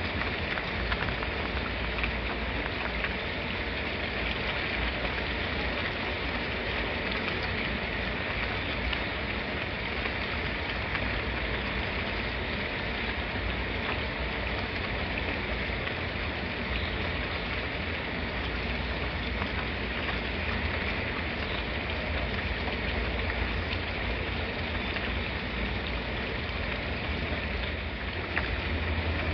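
Steady, even rain falling on a surface, with many fine drop patters throughout.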